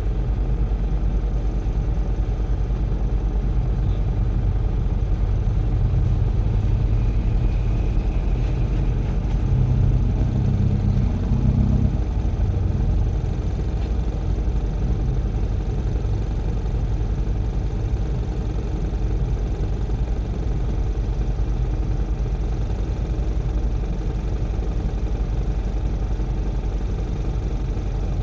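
Heavy diesel engine running steadily with a low rumble. It gets louder for a few seconds, between about six and twelve seconds in, then settles back.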